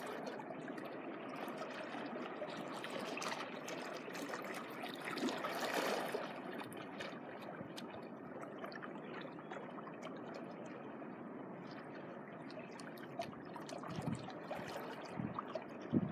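Small waves lapping and washing over the shore in a steady trickling wash, swelling once as a wave comes in about five seconds in. A few low bumps sound near the end.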